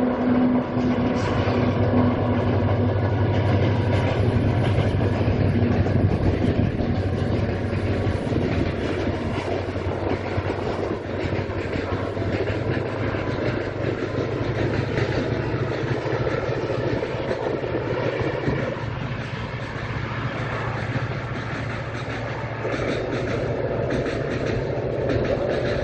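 Freight train of container wagons rolling steadily past: a continuous rumble with fast, dense clatter of steel wheels on the rails, plus a low hum that is strongest in the first several seconds.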